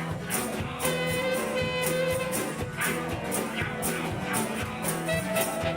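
Live band music: drums keep a steady beat under a bass line and held melody notes.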